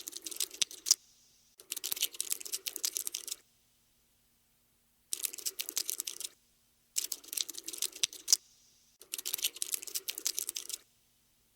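Cockroach scuttling sound effect: bursts of fast, dry clicking and scratching, five runs of one to two seconds each, stopping and starting with short silent pauses in between.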